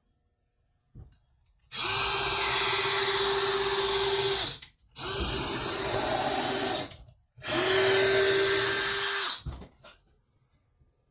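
Power drill running in three bursts of two to three seconds each, its motor whining at a steady pitch, with short pauses between them.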